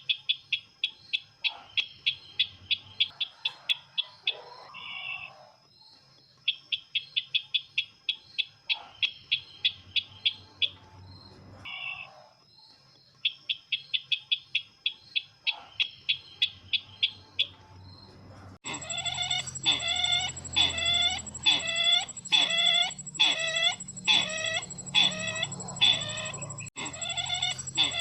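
Recorded calls of the sisintar ladang bird, played as a trapping lure. Fast trills of clicking notes last about three seconds and repeat every six or seven seconds, with a short separate call between them. About two-thirds through, the sound switches abruptly to a louder series of ringing notes, about two a second.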